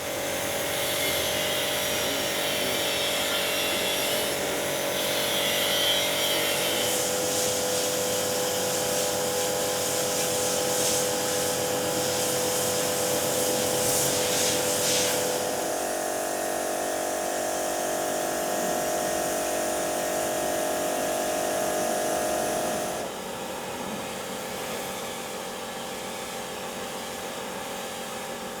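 Electric high pressure washer running: a steady motor whine over the hiss of the water jet. The motor's pitch shifts about halfway through, and the sound gets somewhat quieter near the end.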